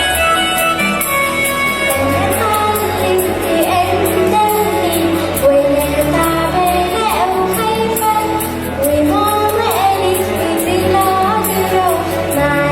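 Children's choir singing an Arabic Christian hymn over an instrumental backing with a steady bass line, the voices coming in strongly about two seconds in.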